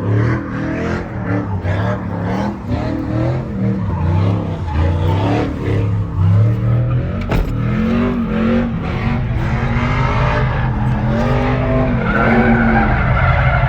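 Pickup truck engine revving up and down over and over, then held at steady high revs for the last few seconds, with tires skidding on pavement as the truck is driven sideways.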